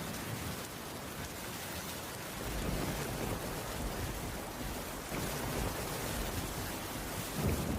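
Steady heavy rain, an even hiss, with a low rumble coming in about two and a half seconds in.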